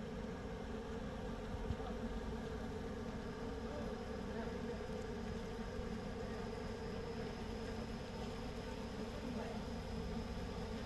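A vehicle engine drones steadily, with an even hum that neither rises nor falls.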